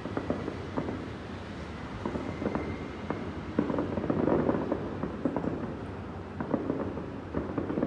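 Fireworks going off: a rapid series of bangs and crackles in clusters, loudest about halfway through.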